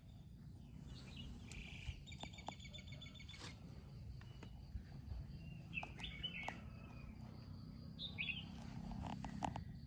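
Faint birdsong: a quick trill a couple of seconds in and a few short chirps later, over a low steady rumble.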